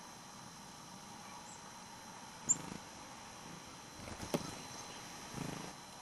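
A small bird coming to a tube seed feeder: a single short high chirp, then a sharp click and a few brief low fluttering rustles as it lands on a perch.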